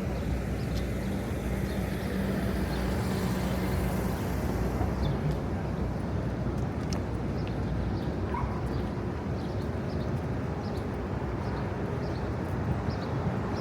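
City street traffic noise: a steady rumble of vehicles, with a high hiss over the first few seconds and scattered light ticks after it.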